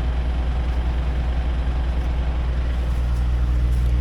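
Tractor engine running steadily, picking up a little about three seconds in as it lifts the fuel tank.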